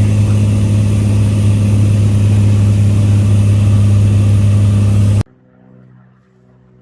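Cessna 182 Skylane's piston engine and propeller droning steadily in flight, cutting off suddenly about five seconds in. Faint music follows.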